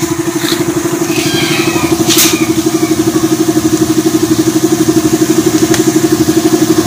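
A small motorcycle-type engine idling steadily with an even, rapid pulse. A brief sharp click about two seconds in.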